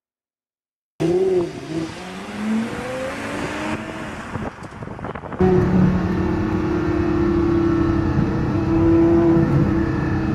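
After about a second of silence, a sports car engine revs, its pitch rising and falling. About five seconds in it jumps abruptly to a louder, steadier engine note that holds to the end.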